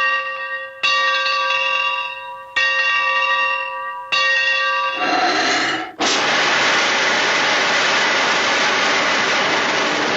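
A bell rung in separate strikes, each ringing out and fading: one carrying over at the start, then three more about a second, two and a half and four seconds in. From about six seconds a loud, steady hiss like escaping steam takes over and runs on.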